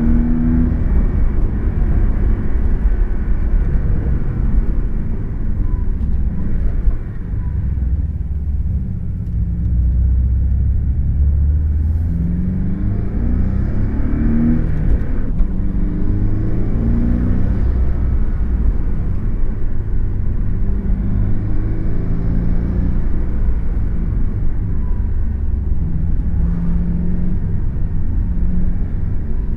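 Porsche sports car engine and road noise heard from inside the cabin while driving: a steady low drone, with the engine note climbing several times as the car accelerates. The level dips briefly about seven seconds in.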